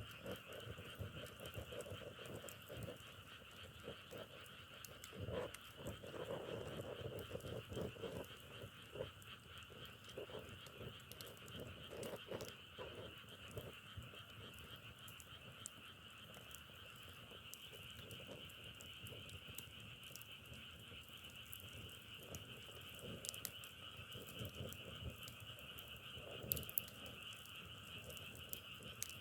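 A frog chorus calling steadily as a continuous trilling drone, with scattered faint crackles of burning firewood.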